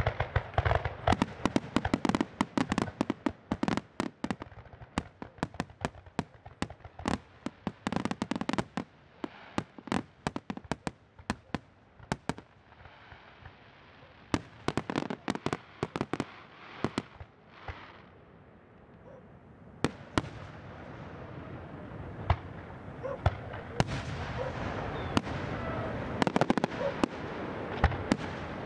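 Aerial fireworks shells bursting: many sharp bangs in quick succession, thinning out about halfway through. A steady hiss builds in the second half, with a fresh cluster of bangs near the end.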